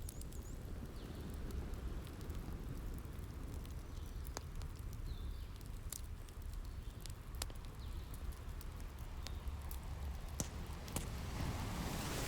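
Wood fire crackling, with sharp pops at irregular intervals, over a low steady rumble of ocean surf.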